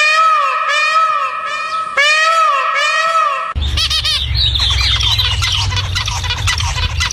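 A bird repeating a loud, squawking call that rises and falls in pitch, over and over, until a sudden cut about three and a half seconds in to a busy mix of many birds chirping over a low steady rumble.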